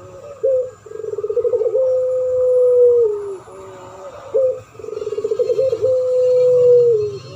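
Doves cooing on a bird-lure recording of puter pelung and derkuku (spotted dove). Twice, a short note leads into a rapid rolling trill and then a long, low held coo that falls away at its end.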